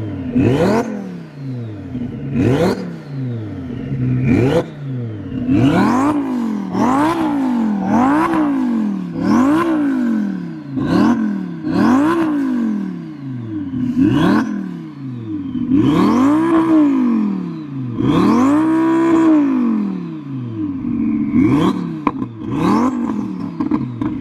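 Twin-turbo Lamborghini Huracan V10 revving up and falling back again and again, roughly once a second, with a couple of longer, higher revs near the middle.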